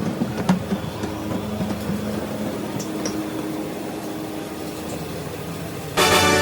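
Steady mechanical hum with faint held tones and a few light clicks. Music starts near the end.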